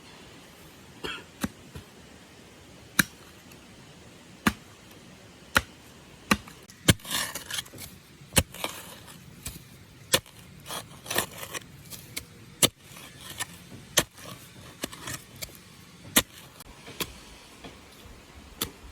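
A series of sharp, irregular knocks or chopping strikes, roughly one every second or so, with short bursts of rustling between some of them.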